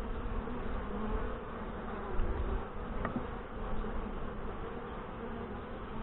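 Honey bees buzzing around an open hive, a steady, wavering hum of many bees, with one faint click about three seconds in.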